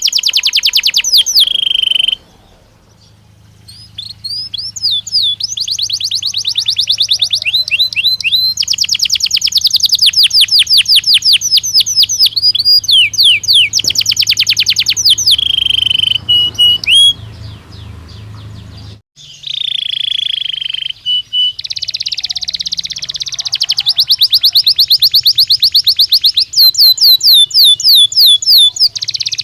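A Belgian canary singing in long rapid trills and rolls of repeated high notes, broken by short pauses about two seconds in and again about two-thirds of the way through.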